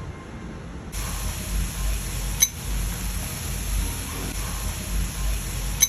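A steady hiss that starts suddenly about a second in, with a low rumble underneath and two sharp clicks, one near the middle and one near the end.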